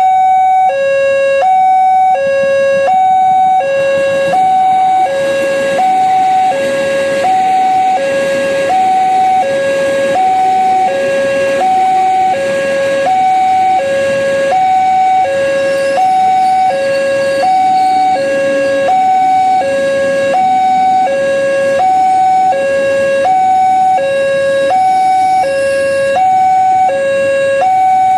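Railway level-crossing warning alarm sounding an alternating two-tone electronic signal, high then low, about once a second, which means a train is approaching or passing. In the middle, the rumble of a passing train swells up under the alarm and fades again.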